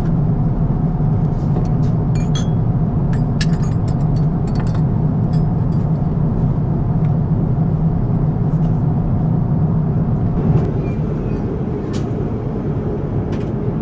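Steady roar of engine and airflow noise inside an Airbus A350-1000 cabin in flight, with a few faint clicks over it. About ten and a half seconds in the roar drops slightly and changes tone.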